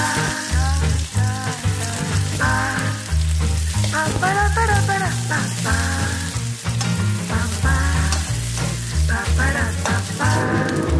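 Sliced shallots and garlic sizzling in hot oil in a wok, a steady hiss, while a spatula stirs them. Background music with a repeating bass line plays throughout.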